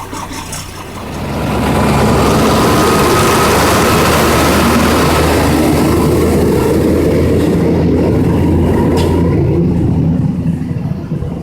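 Yard truck's diesel engine running loud and steady, swelling about a second and a half in and dying away near the end.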